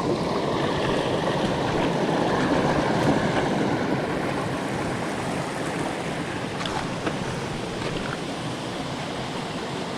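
Steady rush of a rocky jungle stream, water tumbling over stones, a little louder in the first half, with a couple of faint knocks.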